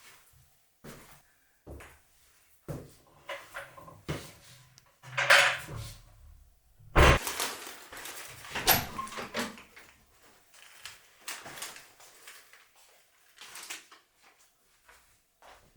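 A string of irregular knocks and clatters in a small room, like doors, drawers or household things being handled. The loudest are a scrape-like clatter about five seconds in and a sharp thump about seven seconds in.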